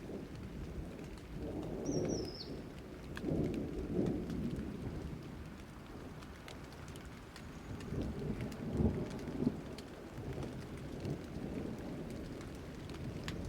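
Thunderstorm: steady rain with many small drops ticking, and low rolls of thunder swelling and fading several times, the strongest about nine seconds in. A brief high, falling chirp sounds about two seconds in.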